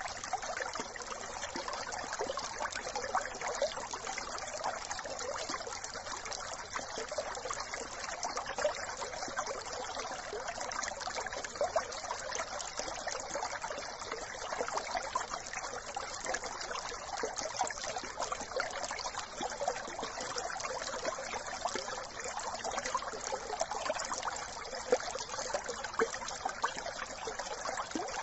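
Brook running: a steady trickling, babbling flow of water with many small splashes.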